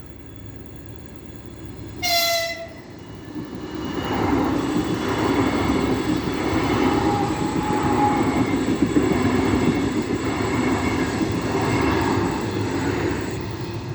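Lastochka (Siemens Desiro RUS) electric train sounds one short horn blast about two seconds in, then rushes past with a loud, steady roar of wheels and air that eases off near the end.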